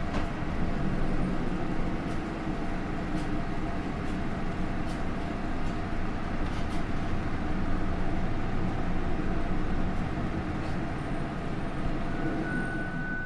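Steady running sound inside a Hino Rainbow II bus: its Isuzu 4HK1-TCH four-cylinder turbodiesel and road noise, with a few light clicks and rattles. A thin steady high tone sounds near the end.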